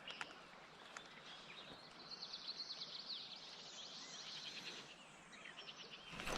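Faint songbird singing: a quick run of high chirped notes that starts about two seconds in and lasts about three seconds, with a shorter burst near the end, over a soft outdoor hiss.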